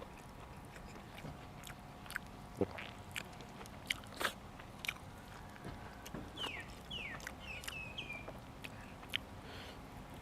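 Close-up eating sounds: biting and chewing with scattered crisp crunches and mouth clicks, and a few short high squeaks in the middle.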